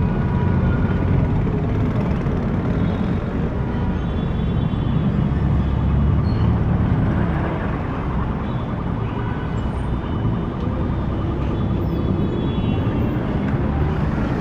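City street traffic: cars and trucks passing, a steady rumble of engines and tyres on the road that swells slightly around the middle.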